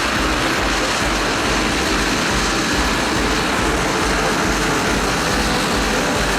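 Military helicopter running steadily, turbine and rotor noise with a low, rhythmic throb.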